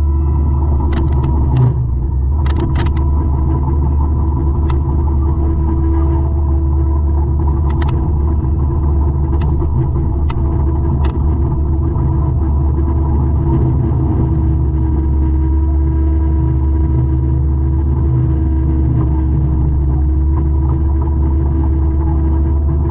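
200-horsepower forestry mulcher's diesel engine running steadily under work, a loud, constant drone with a steady hum. A few sharp clicks and knocks stand out in the first ten seconds or so.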